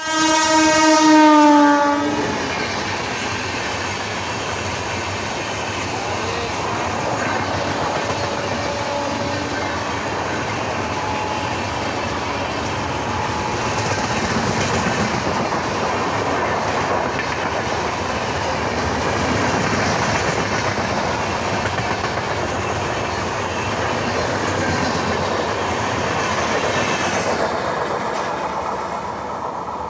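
A train horn sounds loudly for about two seconds. It gives way to the steady running noise and clatter of a train moving along the rails.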